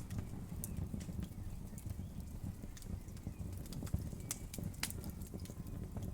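Wood fire crackling: a steady low rumble of flames with irregular sharp pops and snaps of burning wood.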